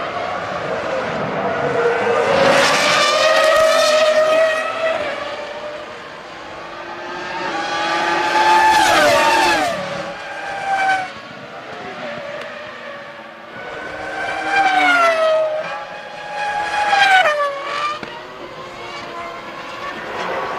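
Formula One cars' 3.0-litre V10 engines screaming past one after another, about four passes, the engine note falling in pitch as each car goes by.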